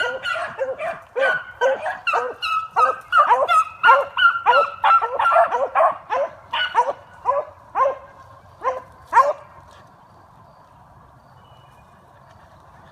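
Beagles barking rapidly on a scent trail, several barks a second at a few different pitches, that stop about nine seconds in, leaving a faint steady hiss.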